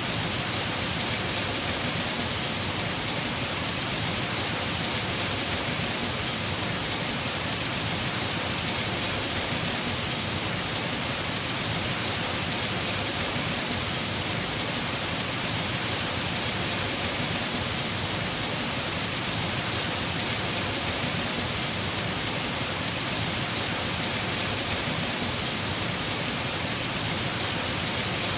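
Heavy rain falling steadily on a house roof, an even hiss with no breaks or changes.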